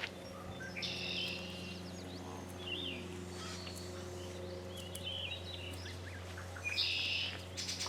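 Small songbirds singing and chirping, with two buzzy trilled songs, one about a second in and one near the end, over a steady low hum.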